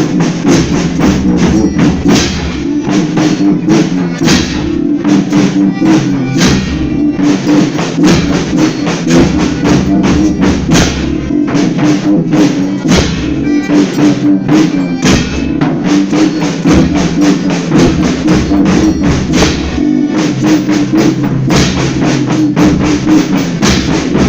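Folia band playing an instrumental passage: steady drum and percussion strokes over sustained instrumental chords, with no singing.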